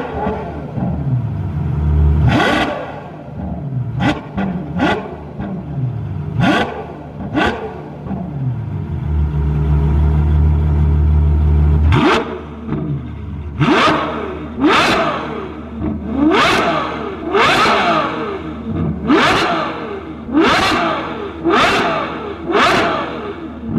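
Ferrari F12's 6.3-litre V12 through an aftermarket exhaust, revved hard from idle in sharp blips that rise and fall back. The blips come spaced out at first, with a stretch of steady idle; from about halfway there is a quick series of about nine revs in a row.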